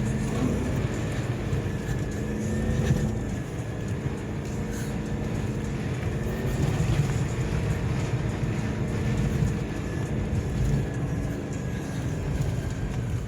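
Car engine running steadily with a low rumble as the vehicle drives over soft sand dunes, heard from inside the vehicle; the engine note shifts a little in pitch.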